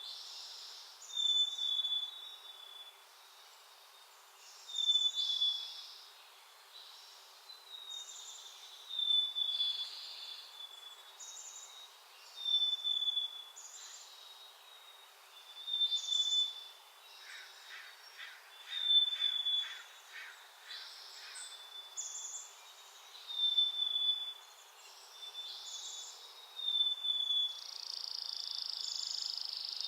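Wild songbirds calling in a garden: a short, high, slightly falling note with a rasping burst, repeated about every three to four seconds. Midway through comes a run of about eight quick, evenly spaced short sounds.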